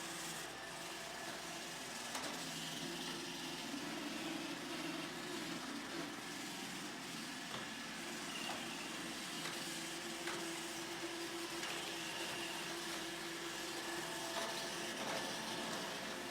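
iRobot Roomba E5 robot vacuum running: a steady motor whir with a few faint tones that shift slightly in pitch, and an occasional small click.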